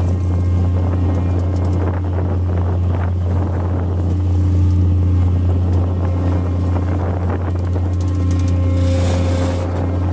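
Squid fishing boat's engine running with a steady low drone and a few steady tones above it. A brief hiss rises over it about nine seconds in.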